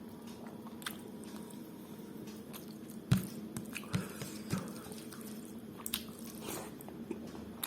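Close-up eating sounds of a person chewing rice, dal and mutton curry: wet chewing and small mouth clicks, with a few soft low thuds about halfway through.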